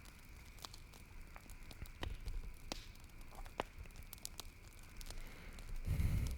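Campfire crackling, with scattered sharp pops over a faint hiss. A louder, low sound rises just before the end.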